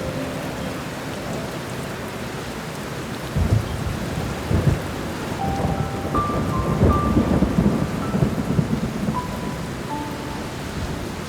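Steady rain with a rumble of thunder that starts about three seconds in and rolls on for several seconds, under sparse, slow piano notes.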